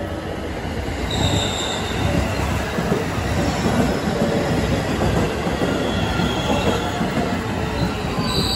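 Electric trains at a station platform: one runs along the adjacent track while a JR West 225 series train pulls in on the platform track, with a steady rumble of wheels on rail. High-pitched wheel squeals come and go, about a second in and again near the end.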